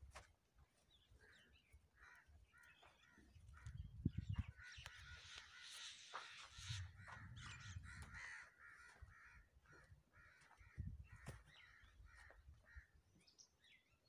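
Faint birds calling in short, harsh notes repeated several times a second, with a few low thuds now and then.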